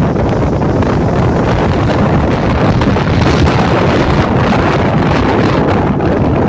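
Heavy downpour in a thunderstorm, a loud steady rush of rain with wind buffeting the microphone.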